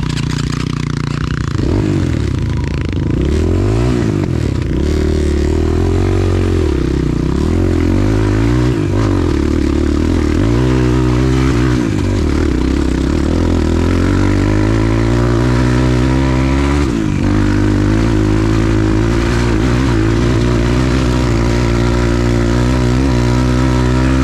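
Motorcycle engine revving up and down under load as the bike climbs a steep slope, its pitch rising and falling over and over.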